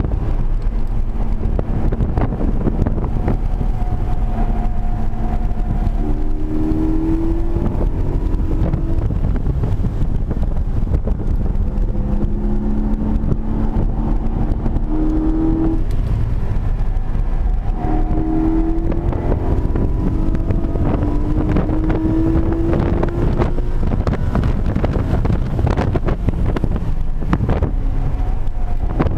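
Porsche 718 Cayman GT4's flat-six engine heard from inside the cabin at track speed, its pitch rising in several long pulls as the car accelerates. Heavy wind and road rumble run underneath.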